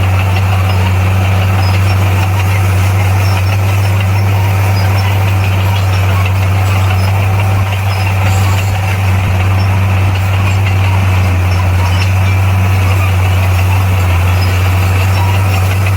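Bulldozer's diesel engine running loudly and steadily with a constant low drone.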